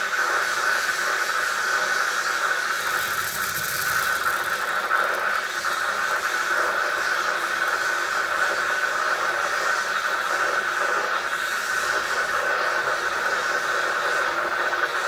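Steady, unbroken hiss with a constant whine running throughout: a handheld heating tool blowing on the freezer evaporator to melt its ice.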